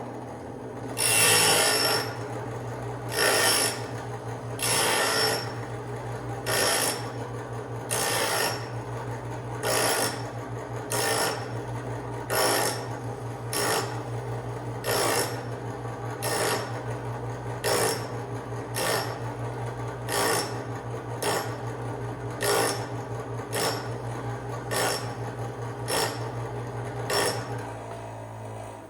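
Old bench grinder running with a steady hum while a drill bit held in a sharpening jig is pressed against the grinding wheel again and again, about one harsh grinding stroke a second. The grinding stops near the end.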